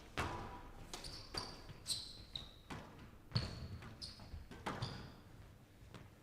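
Squash rally in play: the ball knocks sharply off rackets and walls several times, and court shoes squeak in short, high chirps on the wooden floor between the shots.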